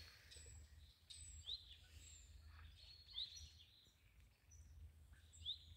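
Faint birdsong: small birds giving scattered short rising chirps and a few thin high notes, over a low steady rumble.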